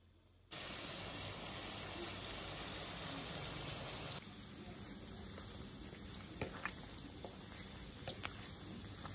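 Diced pork fat cooking in a pan: a steady, loud sizzling and bubbling that starts about half a second in as the water cooks off. About four seconds in it drops to a quieter sizzle of the cubes frying in their own rendered fat, with a few sharp pops near the end.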